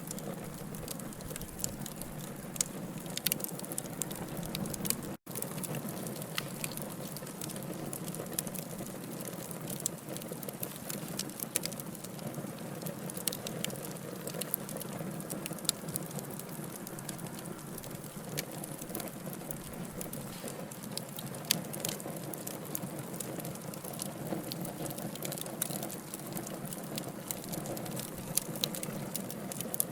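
Logs burning in a wood fire, with frequent sharp, irregular crackles and pops over a soft steady hiss. The sound cuts out for an instant about five seconds in.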